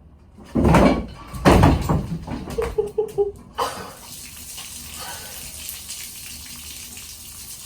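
A heavy engine block dropping out of a pickup bed: two loud crashes about a second apart. About three and a half seconds in, a steady rush of liquid begins as the engine's coolant and oil pour out.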